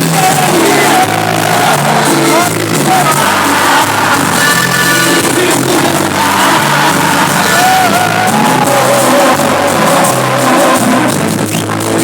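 A live cumbia band playing with a lead voice singing over a repeating bass line. It is loud and echoing, as in a large hall, with crowd shouts mixed in.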